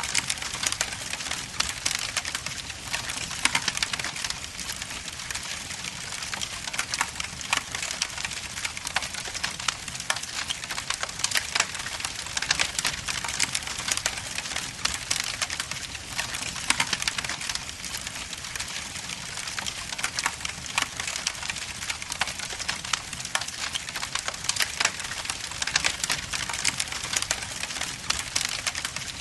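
Wood logs burning in a fireplace, crackling steadily with many small snaps and pops over a soft hiss.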